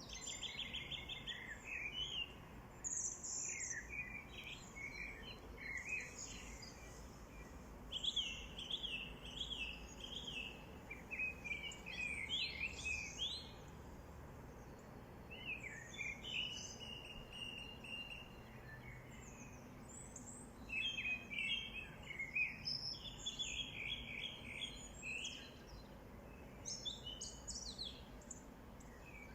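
Several songbirds chirping and singing in overlapping short phrases throughout, over a faint steady outdoor background.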